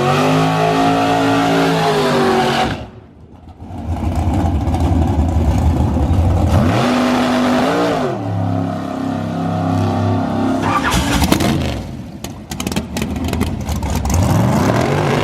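A high-powered drag-racing car engine revving, with its pitch gliding up and down. The sound drops off briefly about three seconds in, then the engine runs again. Near the end there is a stretch of sharp pops and crackles before it revs up once more.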